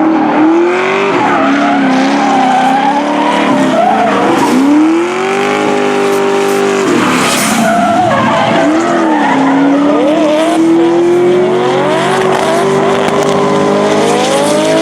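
Drift car engine at high revs, its pitch rising and falling with the throttle, with a long, slowly climbing held note in the second half, over tyres squealing as the car slides.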